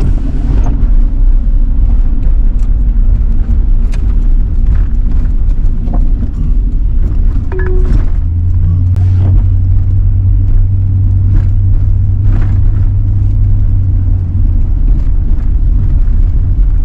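Road noise inside a moving truck's cab: a steady, loud low rumble of engine and tyres, with a deeper drone setting in about eight seconds in.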